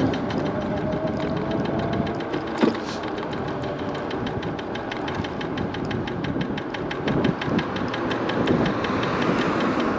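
MiniPro Mi716 electric scooter riding, with a faint motor whine that rises over the first few seconds. Over it, from about two and a half seconds in until near the end, comes a fast, even rattle-knock of about five ticks a second, which the rider thinks may be the headlight rattling.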